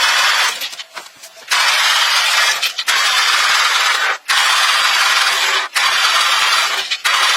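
Loud hissing noise in about six sharp-edged bursts, each lasting roughly a second or more, with brief gaps between them.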